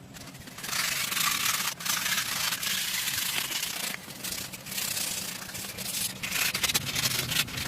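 Abrasive rubbing, like sanding on a car body, starting about a second in and going on in strokes with brief pauses.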